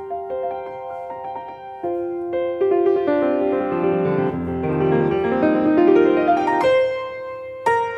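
Solo piano playing. The passage grows busier and louder in the middle with a quick run of notes, eases off, then a firmly struck chord sounds near the end.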